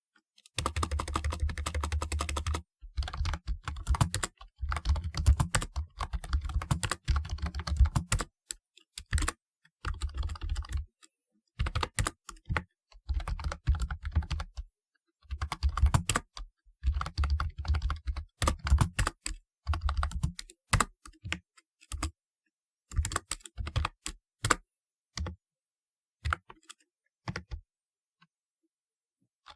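Typing on a typewriter-style keyboard: quick runs of clacking keystrokes in bursts of a second or two with short pauses between them, becoming sparse, scattered key presses near the end.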